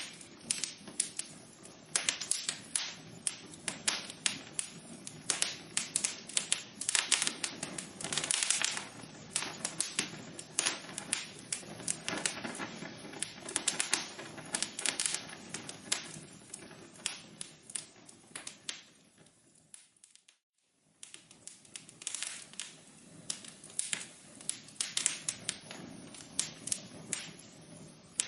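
Wood fire crackling in a fireplace: a steady low hiss of burning with dense, irregular sharp pops and snaps. About two-thirds of the way through, the sound dies away to silence for about a second, then the crackling resumes.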